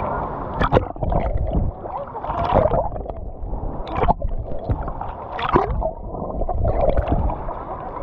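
Sea water gurgling and sloshing against a camera held at the surface, with scattered bubbling clicks; the sound turns muffled and dull for a few seconds in the middle while the camera is under water, then opens up again as it comes back out.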